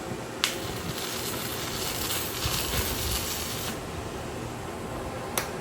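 Welding arc sizzling for about three seconds as a tack weld is put in, starting with a sharp click and cutting off suddenly; another click near the end.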